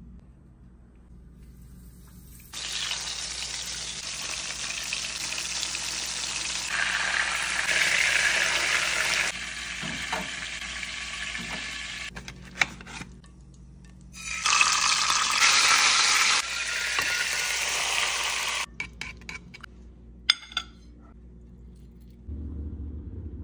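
Hot oil sizzling loudly in a frying pan as floured fish fillets shallow-fry. It comes in two long stretches, from about two and a half seconds in to about twelve, and again from about fourteen to eighteen seconds, with a few sharp clicks in between and after.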